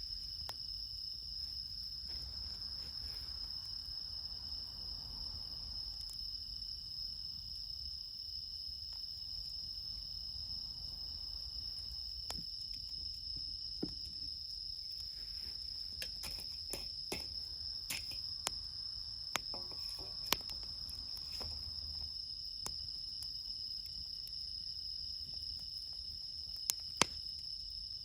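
Bell crickets trilling steadily in a high, unbroken chorus. Campfire wood gives sharp pops and crackles, most of them past the middle and a couple near the end.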